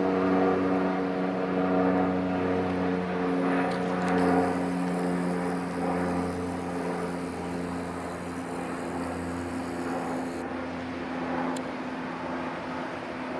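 Boat diesel engine running steadily, a low drone with a clear pitch, slowly getting quieter in the second half.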